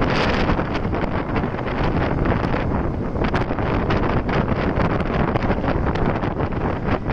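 Wind rushing over the microphone of a camera on a moving motorcycle: a loud, steady rush with constant buffeting and flickering crackle.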